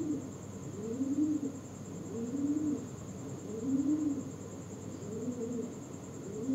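A bird cooing repeatedly: low coos that each rise and fall, about one every 1.3 seconds.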